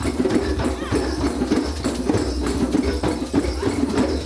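A group of hand drums played together in a drum circle, many overlapping strikes in a busy, continuous rhythm.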